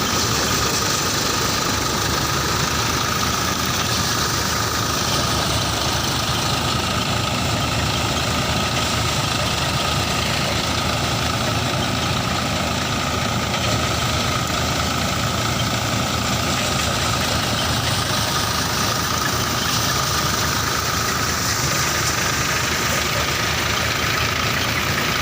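Engine of a paddy-harvesting machine running steadily while it cuts rice, with a steady high whine over the engine noise and slow rises and falls in pitch.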